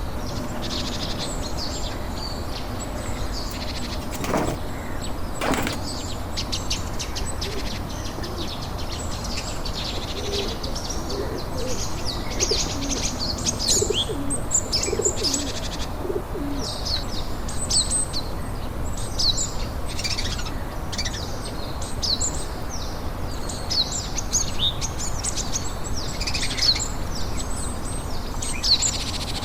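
Small birds chirping: many short, high chirps that grow busier after about ten seconds, over a steady low background noise.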